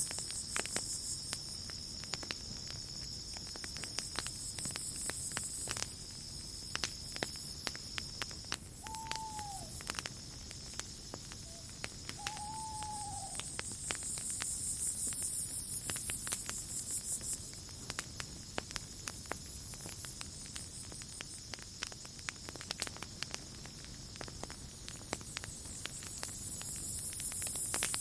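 Crickets chirping in a steady high drone that swells and fades, over a campfire crackling and popping. About nine seconds in, a bird gives two short falling calls, three seconds apart.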